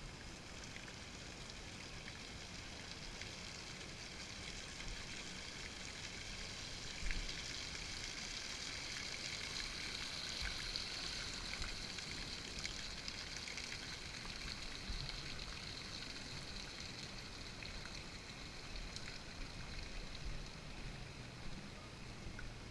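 Rushing, splashing water of a lazy river, an even hiss that swells to its loudest about halfway through and then eases off.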